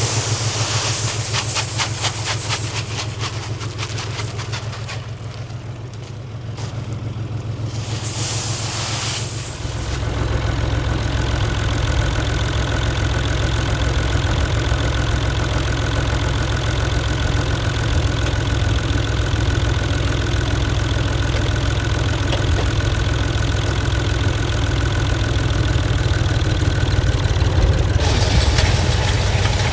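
Farm tractor engine running, with a fast, fine ticking over it for the first nine seconds or so. About ten seconds in it gets louder and deeper, as under more load, with a steady high whine over it.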